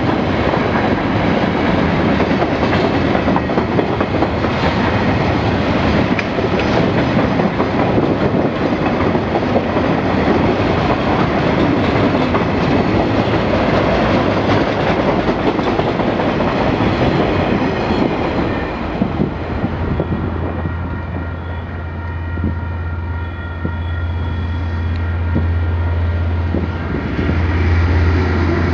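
Freight train wagons rolling past at close range, wheels clattering over the rail joints. After about twenty seconds the rolling noise eases, leaving a steady low hum.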